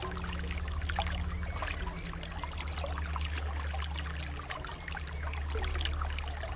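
Water trickling and splashing steadily, like a small stream, over soft sustained low music tones that shift pitch slowly.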